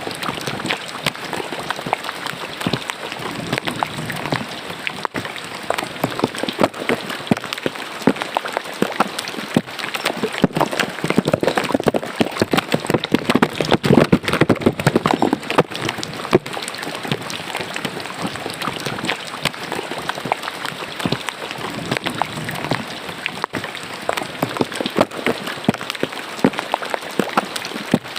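Rain falling on and into a roadside drain: a dense, steady patter of drops with splashing water, heavier for a few seconds around the middle.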